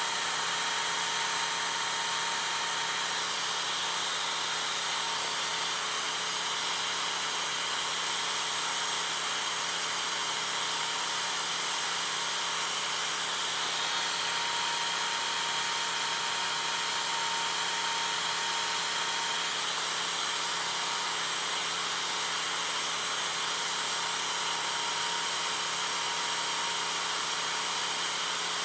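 An electric power tool running steadily under load, with a constant high hiss and a faint steady whine.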